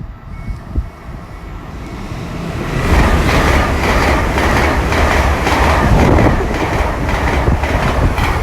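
A Great Western Railway Class 800 IET train of two coupled units passing through the station at speed. It builds up over the first seconds, then runs loud from about three seconds in, with a rapid clickety-clack of wheels over the rail joints.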